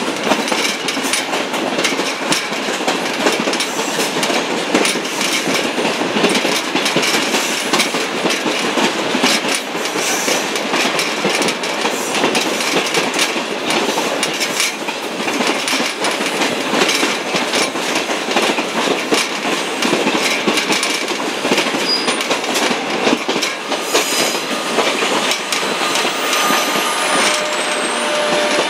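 Shortline excursion train riding along the track: a steady loud rumble of wheels on rails, full of quick clicks and clacks.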